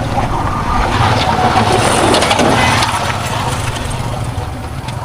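Vehicle engine and tyre noise on the move, louder from about a second in and easing off after about three seconds.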